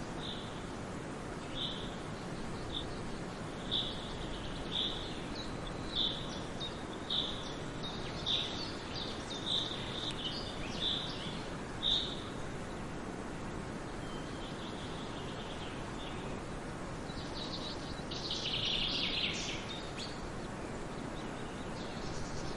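Forest birds singing over a steady background hiss: one bird repeats a short high note roughly once a second through the first half, then a faint trill and, near the end, a louder, busier burst of song.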